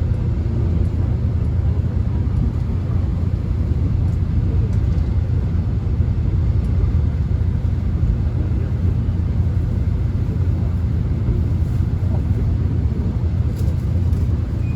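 Subway train running, heard from inside the carriage: a steady, even low rumble of the wheels and motors with no distinct events.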